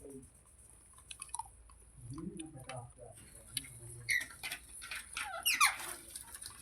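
Green parrot making soft clicks and a few short calls, then one louder call about five and a half seconds in that slides steeply down in pitch.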